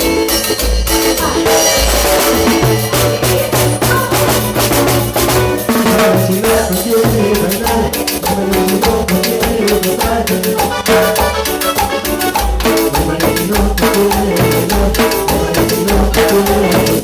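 Cumbia band music played live, with bass, drum kit and shaken hand percussion keeping a steady dance beat under keyboard chords.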